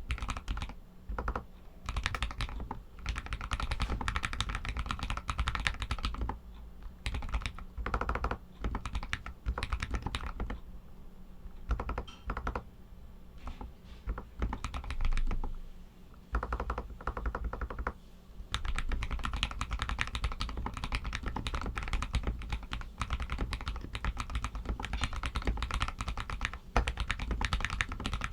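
Typing on an RK61 mechanical keyboard with Outemu Red linear switches: rapid runs of keystrokes with short pauses between bursts. There is a longer lull about fifteen to eighteen seconds in.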